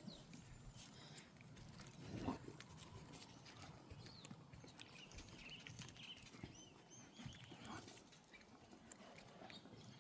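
Near silence on the walk: faint scattered clicks and rustles, a brief faint swell about two seconds in, and a few faint high chirps in the middle.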